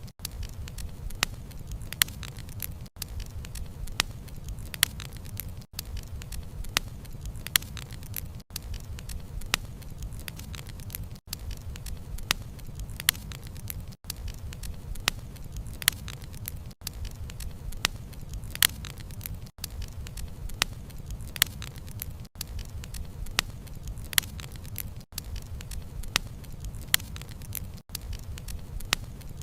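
Wood fire burning with a steady low rumble and frequent sharp crackles and pops of the logs. The sound dips briefly about every three seconds.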